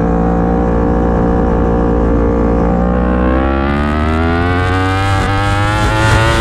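Yamaha R1 inline-four race engine holding a steady note for about three seconds, then revving up steadily as the bike accelerates hard.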